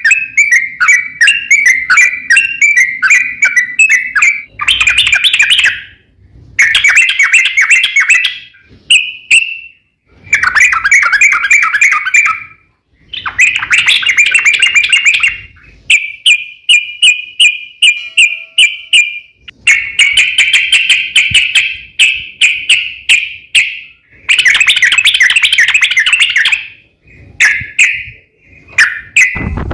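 A crokcokan songbird singing loud, rapid chattering phrases, each lasting one to four seconds with short pauses between them.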